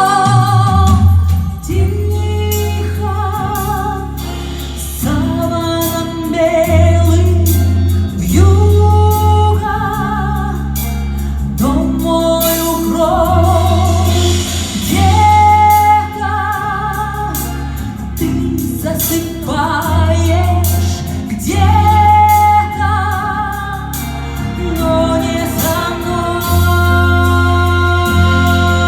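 Female vocals singing long, held notes with wide vibrato over an instrumental backing with a strong bass line.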